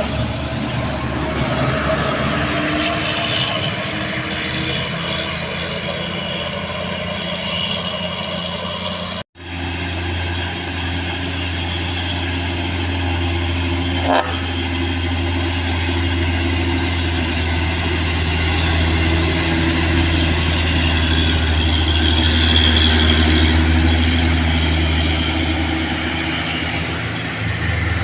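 Heavy truck diesel engine running steadily under load, pulling up a steep climb. The sound drops out abruptly for a moment about nine seconds in, and a short click comes about five seconds later.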